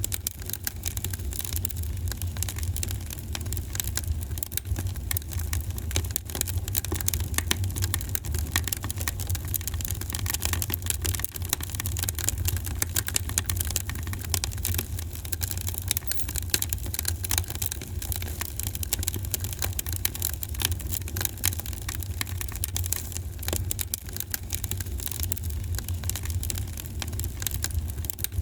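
Fireplace fire crackling, with a dense run of small pops over a steady low rumble.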